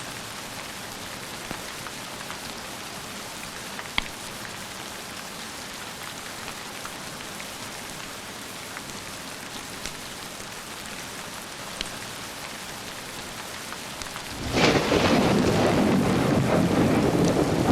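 Steady rain with a few sharp clicks, then about three-quarters of the way through a loud thunderclap breaks suddenly and the thunder rumbles on, heavy in the low end.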